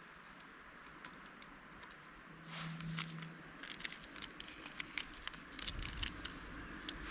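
Wood campfire crackling with irregular sharp pops, thickest in the second half. A low rumble comes in late.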